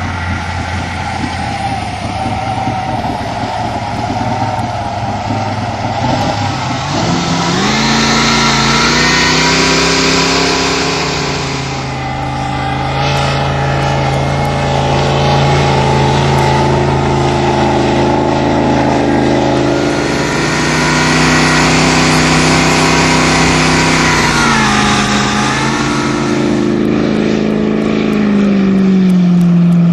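Jet boat's supercharged 468 cubic-inch Chevy big-block V8 running. The revs climb about a quarter of the way in, hold steady, then ease back in two steps near the end.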